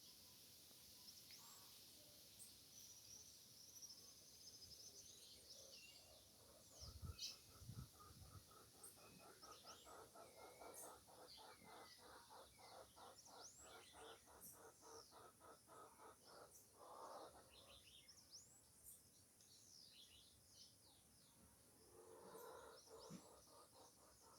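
Faint bird calls: many short, high chirps and whistles from red-cowled cardinals and other birds. A rapid, even pulsing of about four beats a second runs through the middle stretch, with a couple of low thumps about seven seconds in.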